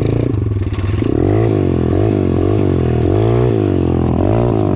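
Dirt bike riding a rough trail, its motor note rising and falling over and over as the throttle is worked, with some clatter.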